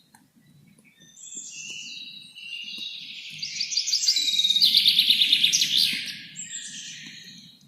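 Birds chirping, building to a fast, loud trill about four to six seconds in, then fading.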